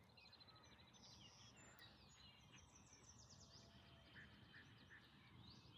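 Faint birdsong: scattered chirps and short trills, with a quick run of repeated notes about half a second in.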